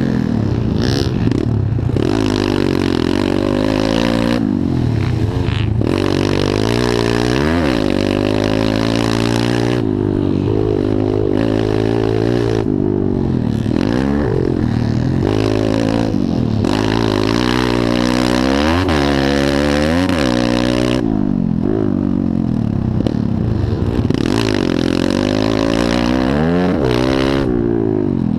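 Pit bike engines revving up and down over and over as the throttle is opened and closed, the pitch repeatedly climbing and dropping.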